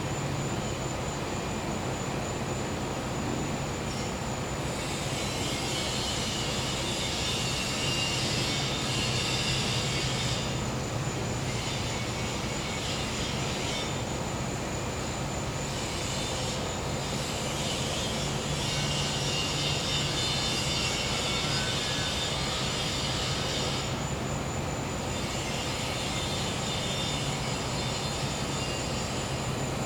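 Gas-powered generator humming steadily, under a constant high-pitched cricket trill. A high buzzing, typical of cicadas, swells in and fades out several times, each swell lasting a few seconds.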